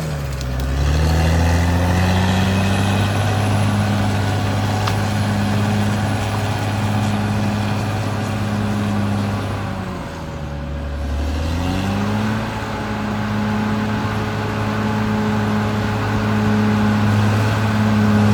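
Caterpillar D6R XL bulldozer's diesel engine working, its engine note sagging just after the start and again about ten seconds in, then climbing back up each time, as under changing load.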